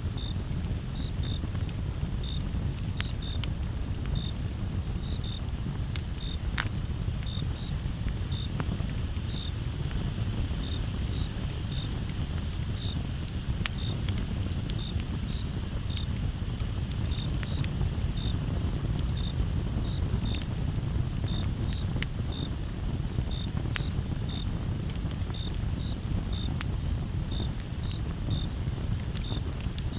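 Campfire crackling with scattered sharp pops over a steady low rumble, while crickets sing: a constant high trill with short chirps repeating about once or twice a second.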